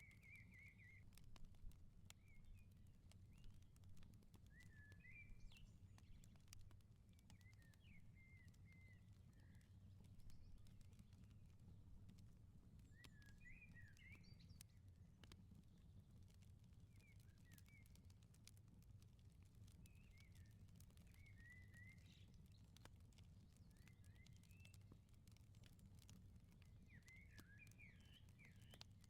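Faint crackling of a wood fire in a garden firepit, with scattered small pops and clicks. Birds chirp in short phrases every few seconds, over a steady low rumble.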